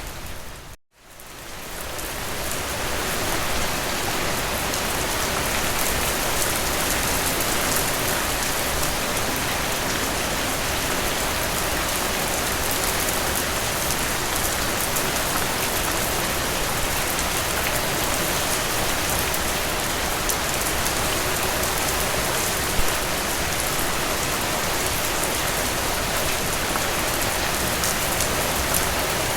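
Heavy rain falling steadily, an even hiss of drops across all pitches. It dips to near silence just under a second in and fades back up over a couple of seconds, and one louder single tap stands out about two-thirds of the way through.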